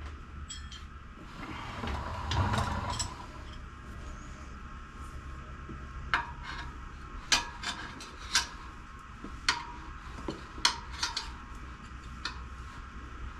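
Metal tyre levers clinking and scraping against a motorcycle wheel rim as the front tyre bead is levered on over the tube. A rubbing scrape about two seconds in, then a string of separate sharp clinks.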